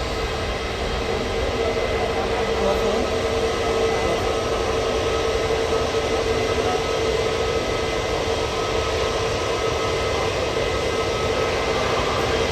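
Boeing 777 jet engines running steadily at takeoff thrust: an even noise with a held mid-pitched whine, growing slightly louder after about two seconds.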